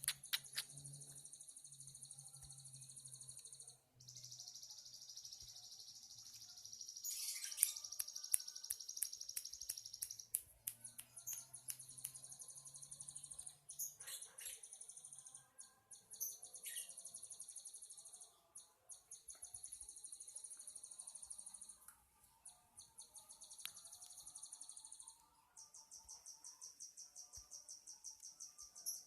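Lovebird singing in long, rapid, high-pitched trills, each lasting several seconds, broken by short sharp chirps.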